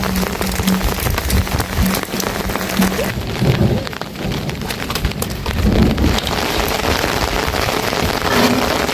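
Heavy rain falling steadily, with many close individual drop hits, and a low rumble underneath at times.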